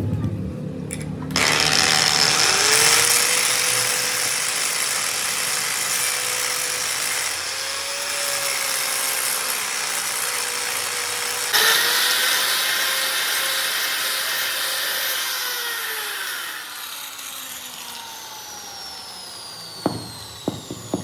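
An electric power tool spins up to speed about a second in and works on steel with a loud, hissing grind over a steady whine, surging louder about halfway through. From about fifteen seconds its whine falls away as it winds down, and a few sharp clicks follow near the end.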